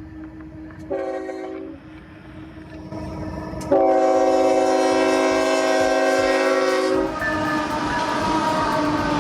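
Locomotive air horn sounding a short blast, then a long loud blast, for the approaching train. Near the end the horn's tones drop in pitch as the locomotive passes, over the loud rumble of the train.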